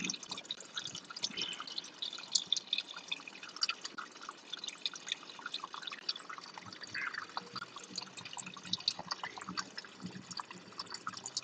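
Engine oil draining from a 2023 Can-Am Spyder RT Limited: many small irregular drips and splatters of the oil falling.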